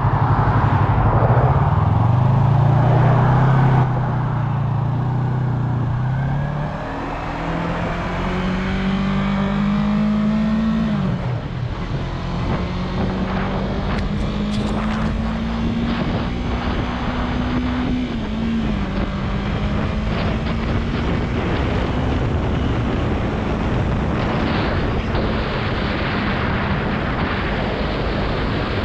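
Yamaha R3's parallel-twin engine pulling up through the gears. Its pitch rises, then drops sharply at each upshift, three times in the first two-thirds, then holds nearly steady at cruise. A constant rush of wind runs underneath.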